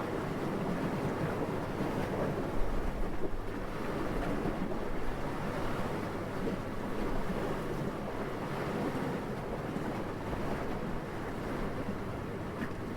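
Steady night wind, a low rushing noise that swells and eases slightly, with a short louder surge about two and a half seconds in.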